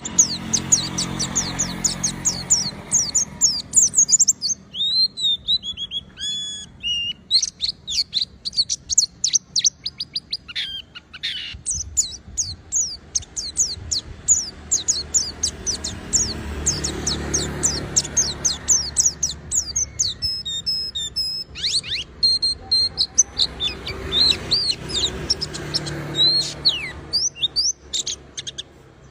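White-eye (pleci) singing almost without a break: fast runs of high, thin chirps and trills.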